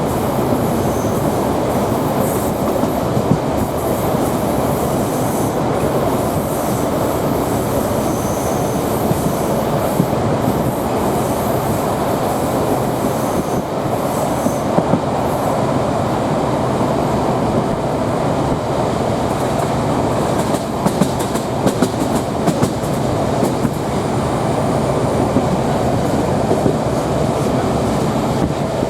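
D1 diesel multiple unit running along the rails, heard from inside the carriage: a steady rumble of wheels on track with the train's diesel running underneath. A cluster of sharp clicks comes about two-thirds of the way through.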